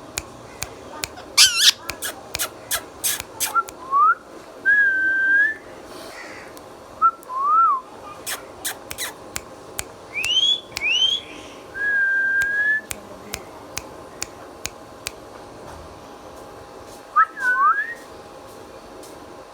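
Ringneck parrot making short clear whistles, some gliding up or down and some held level, mostly in pairs, among a scatter of sharp clicks that come in quick runs.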